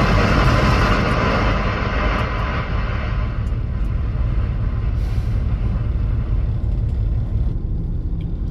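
Semi truck's air brake system letting out a long hiss that fades over the first few seconds, over the steady low rumble of the diesel engine idling.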